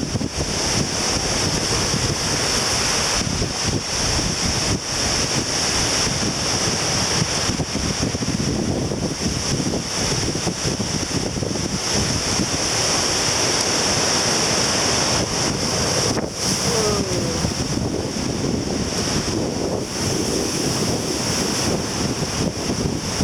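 Strong wind buffeting the microphone over surf breaking on the shore: a steady rush of noise.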